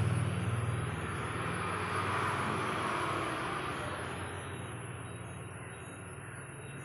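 Steady mechanical running noise with a low hum and a constant thin high-pitched whine, fading gradually over the last few seconds.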